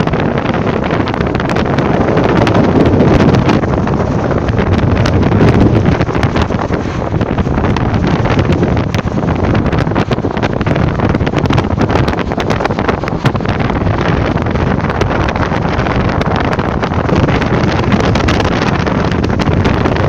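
Strong wind buffeting the microphone: a loud, steady rumbling roar with crackling.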